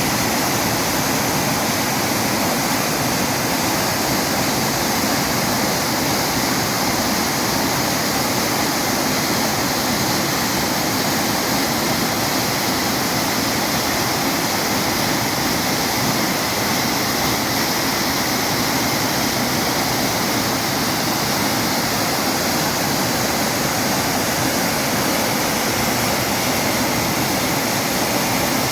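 Waterfall: water pouring and splashing in a steady, loud rush that holds unchanged throughout.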